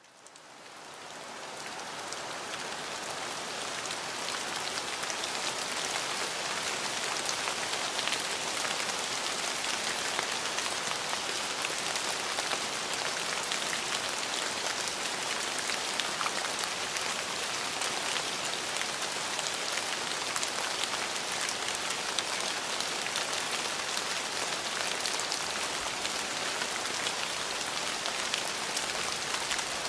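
Steady rain falling on a surface, an even hiss with fine drop patter, fading in over the first few seconds.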